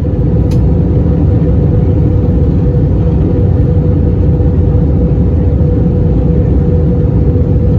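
Airbus A321 cabin noise: a loud, steady rumble of the jet engines and airflow, with a constant hum running through it.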